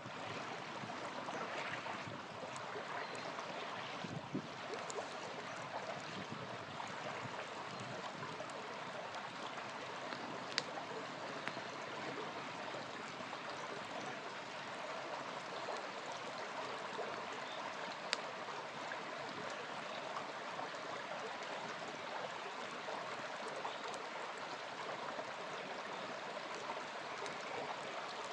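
Small river flowing steadily, with a few single sharp pops from a campfire.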